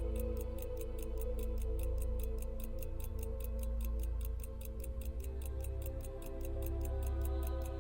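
Mechanical pocket watch ticking evenly at about five ticks a second, over background music with held chords and a low bass.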